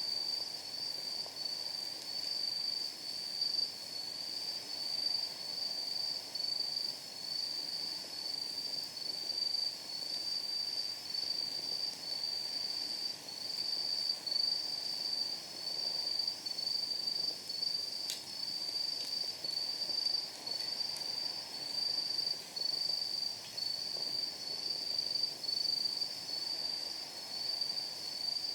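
Night insects chirping in an even pulsing rhythm, about one high pulse a second, over the faint hiss of a burning wood fire. One sharp pop of firewood comes about two-thirds of the way in.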